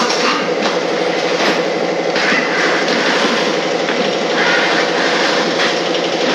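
A steady, loud mechanical running noise with a fast rattle.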